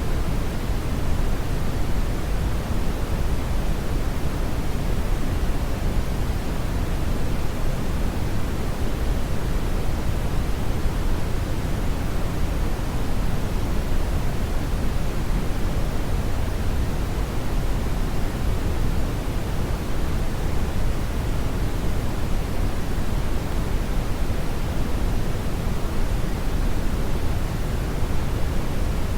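Steady brown noise: an even, deep rushing hiss, strongest in the lows and falling off toward the highs, unchanging.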